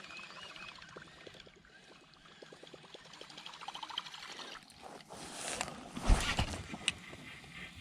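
A fishing reel being cranked in with a fine rapid ticking, then a rushing, splashy stretch with a sharp loud knock about six seconds in and a few lighter clicks after it: a cast and handling on a kayak.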